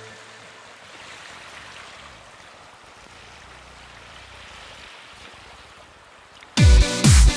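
Soft, steady noise of moving sea water, with no clear rhythm. About six and a half seconds in, electronic dance music with a heavy, regular kick drum cuts in loudly.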